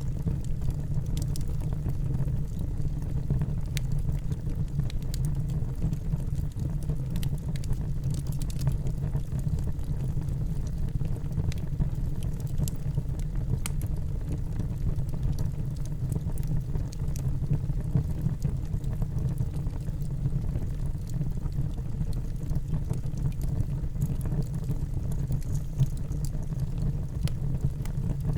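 A wood fire burning in a fireplace: a steady low roar with frequent small crackles and pops scattered throughout.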